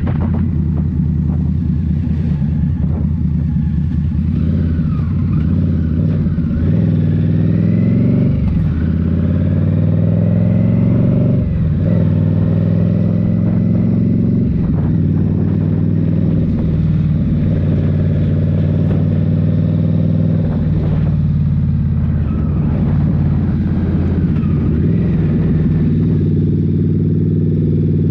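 Indian Scout Rogue's 69 cu-in V-twin running through a Rinehart slip-on exhaust while riding, its note rising and falling several times with throttle and gear changes.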